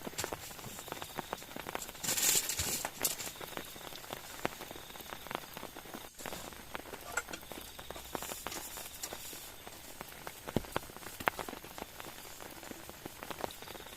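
Rain falling steadily, with many scattered drops ticking sharply close by and a brief louder rush about two seconds in.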